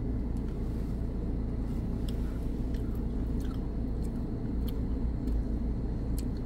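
Chewing a small Dunkaroos vanilla cookie dipped in frosting, with scattered short mouth clicks, over a steady low car-interior rumble.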